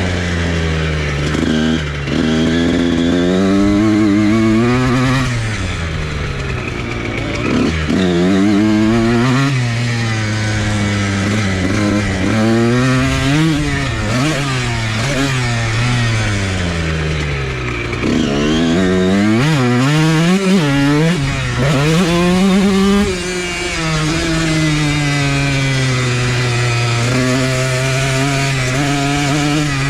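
Dirt bike engine being ridden hard, revving up and dropping back again and again as the rider works the throttle and gears. It settles to a steadier note over the last several seconds.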